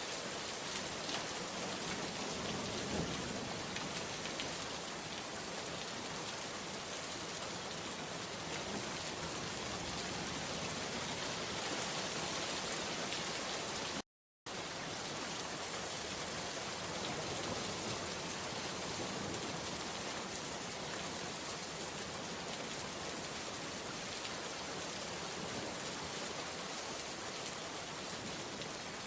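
Steady rain falling, an even hiss of many drops. About halfway through it cuts out completely for a split second, then resumes as before.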